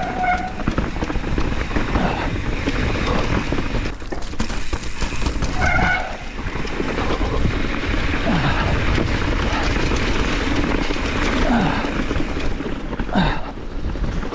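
Mountain bike riding down a wet, rocky trail: steady wind rush on the microphone and tyre noise, with rattling knocks from the bike over rocks and a couple of brief squeals, one at the start and one about six seconds in.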